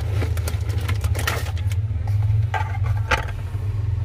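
A steady low rumble with scattered short clicks and taps over it.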